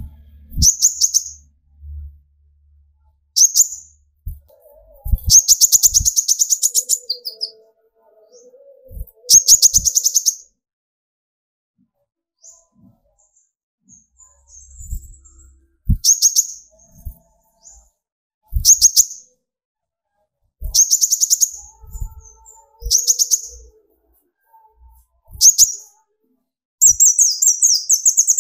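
Kolibri ninja, a sunbird, singing its rapid-fire 'tembakan' song: bursts of fast, very high-pitched notes, each lasting from half a second to about two seconds, repeated with short pauses between.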